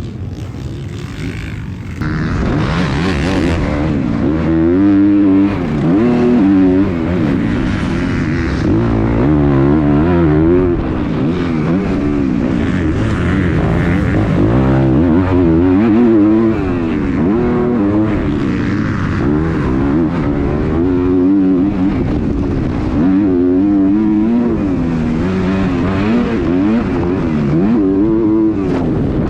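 Several motocross dirt bikes racing past, their engines revving up and dropping again and again as the riders shift, brake and get back on the throttle. The sound grows louder about two seconds in.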